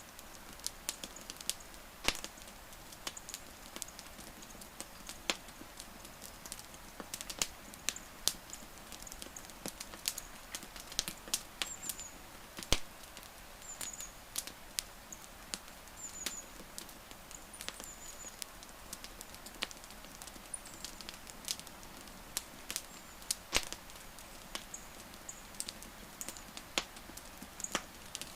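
Wood fire crackling, with frequent irregular sharp pops and snaps over a steady soft hiss. A few faint, short high chirps come through in the middle.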